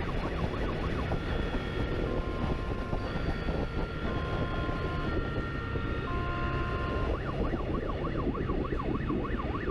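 Police motorcycle siren sounding during a pursuit: rapid up-and-down sweeps, changing to steady held tones for a few seconds in the middle and back to fast sweeps near the end, over steady engine and road rumble.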